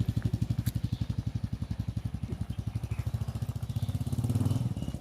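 Motorcycle engine running at low revs with a steady, rapid pulse. It swells briefly about four seconds in, then settles again.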